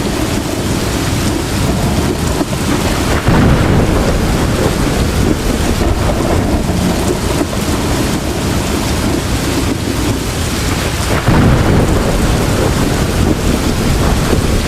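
Heavy rain pouring steadily, with thunder rumbling under it. Two louder thunder rumbles come in suddenly, about three seconds in and again about eleven seconds in.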